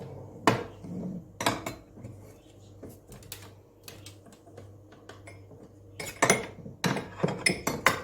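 Hard clinks and knocks of kitchenware being handled. A few sharp ones come near the start, lighter taps follow, and a quick flurry of clatter comes in the last two seconds.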